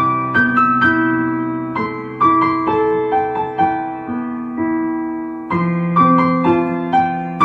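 Slow, mellow piano or electric piano music: soft chords and single notes struck a few times a second and left to ring, over held bass notes that change every few seconds.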